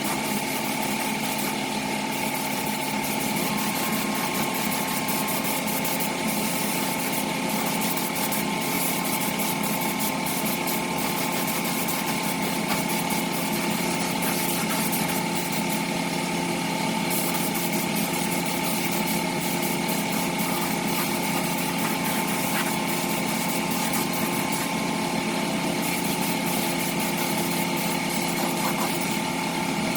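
A power tool's motor running steadily without letting up, with a scratchy high hiss over its steady hum.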